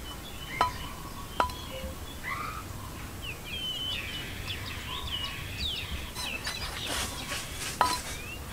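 Small birds chirping, a quick run of short rising and falling calls in the middle. Three sharp clinks, each with a brief ring: one about half a second in, one about a second and a half in, and one near the end.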